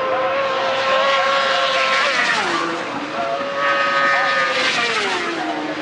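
High-revving superbike engines passing, their pitch held high and then dropping twice as the bikes go by and roll off the throttle.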